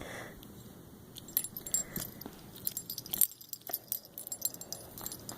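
A pet playing roughly with a dead bird: scattered quick, light metallic jingles and clicks as it moves about.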